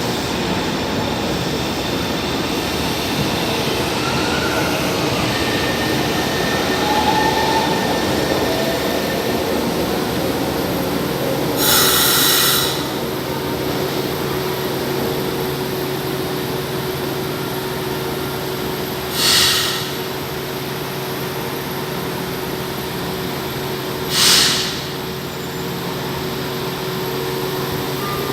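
São Paulo Metro Line 1 train running through the station: a steady rail noise with faint squealing wheel tones. Three short, loud hisses come in the second half.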